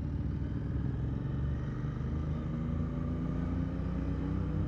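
Motorcycle engine running while riding on the road, with a low rumble of wind and road noise. The engine note rises gently through the second half as the bike speeds up.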